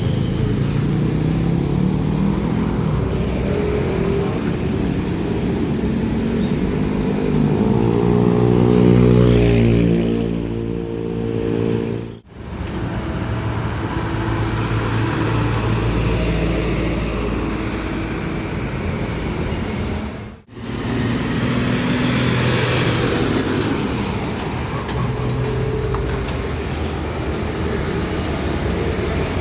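Trucks passing on a road with their engines running, heard as three short stretches separated by sudden cuts. The loudest pass comes about nine seconds in, with an engine note that rises and then falls.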